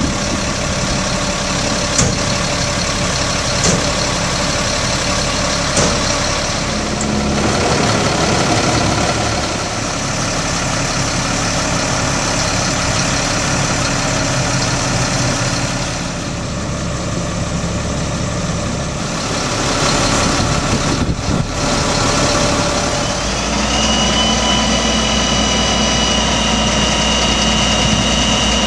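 Caterpillar 3126 inline-six diesel engine of a Ford F650 truck running at idle, with a few light clicks early. About 23 seconds in, the low engine note grows heavier and a steady high whine joins it until near the end.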